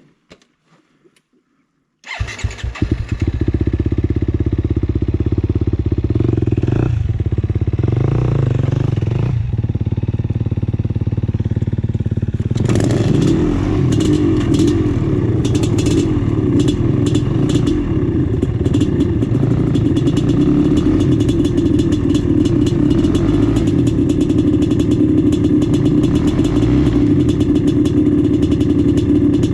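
A 1996 Maico 440 two-stroke single-cylinder dirt bike engine fires up about two seconds in and keeps running. From about twelve seconds in it runs harder and fuller, with rapid sharp crackles over it.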